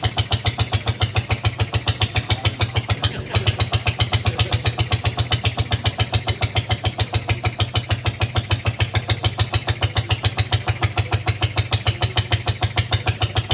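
1915 Caille-built Hiawatha rowboat motor, a single-cylinder two-stroke, running steadily with each firing stroke heard as a separate beat, about six or seven a second. The beat breaks off for a moment about three seconds in, then picks up again.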